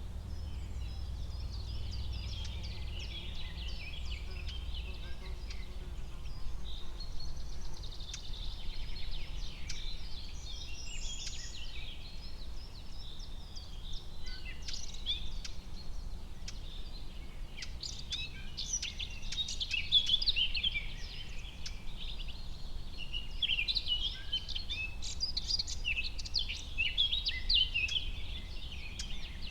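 Forest ambience of many small birds chirping and singing in short, overlapping notes, busiest in the second half, over a steady low rumble.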